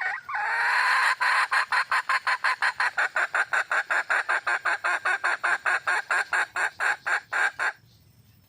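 Junglefowl hen calling for a rooster: a short drawn-out note, then a fast even run of clucks, about five a second, that stops abruptly near the end.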